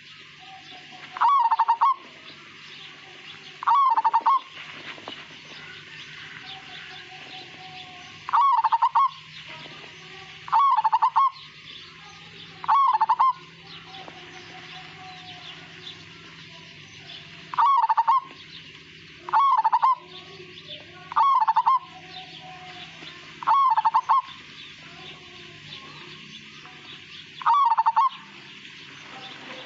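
Zebra dove (perkutut) of the Majapahit strain singing: about ten short, clear cooing phrases, each under a second and a few seconds apart. The phrases end without a long drawn-out closing note.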